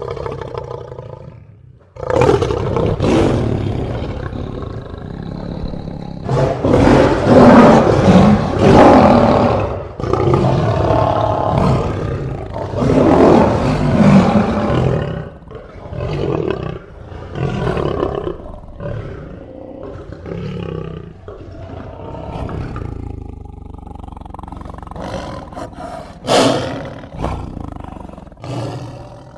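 Big cat roaring: a run of long, loud roars in the first half, then a series of shorter roars and grunts.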